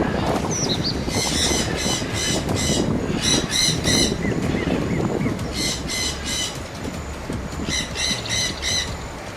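A bird giving harsh, pitched calls in four quick bursts of three or four notes each, over a steady low rumble like wind.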